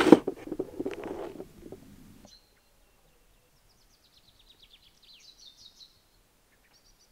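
A knock and handling noise under the end of a man's speech, then, after a drop to near silence, a small songbird singing faintly: a few quick, high, descending trilled phrases from about four to six seconds in and a couple of short high notes near the end.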